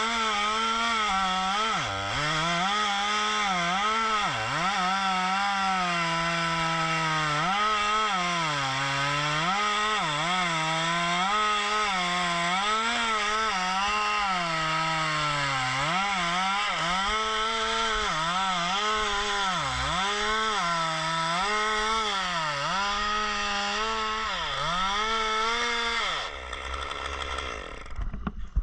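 Two-stroke chainsaw cutting wood. The engine pitch keeps dipping as the chain bites and bogs under load, then picks back up. About 26 seconds in it winds down and stops.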